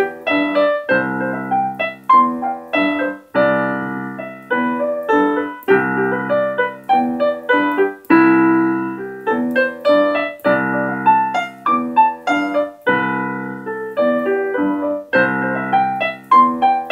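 Piano playing a rumba broken-chord accompaniment: a repeating arpeggiated figure, bass note with do-mi-sol-mi and octave leaps, struck in an even rhythm with the chord changing every couple of seconds.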